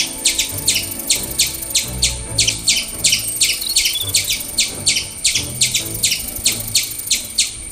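Cartoon forest ambience of birds chirping: quick, evenly repeated downward-sweeping chirps at about four a second, over a steady high thin whine like insects.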